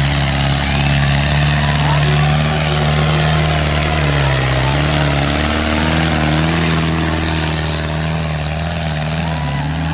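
Tractor diesel engine running hard under load; its note sags about four seconds in, then picks back up.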